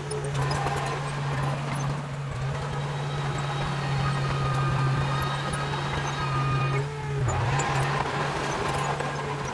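Heavy diesel engine of earthmoving machinery running steadily with a deep drone; the engine note sags briefly about seven seconds in.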